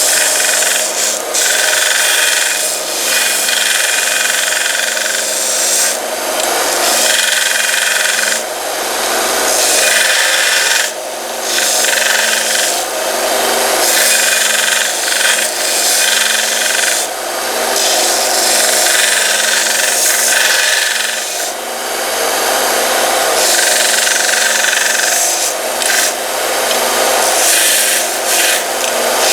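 Central Machinery 1x30-inch belt sander with a 1/3-horsepower motor, running while a small piece of aluminum is ground against its belt. A steady motor hum sits under a loud, gritty grinding that swells and drops off in repeated passes every second or two.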